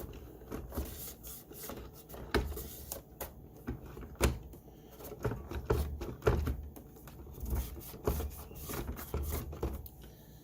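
A small Allen wrench scraping and tapping against a Roomba i7's plastic housing while picking out debris around the edges: a run of irregular scrapes and clicks.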